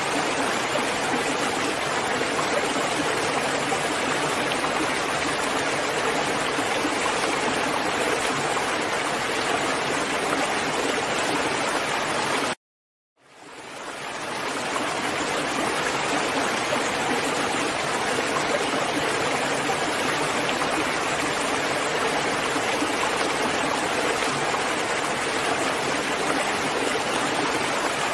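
Steady heavy rain, an even hiss of falling water. About twelve seconds in it cuts out suddenly for about half a second, then fades back in over a second or so.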